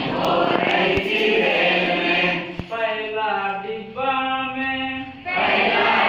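A group of voices singing a children's song in chorus, with a long held note in the middle before the group comes back in.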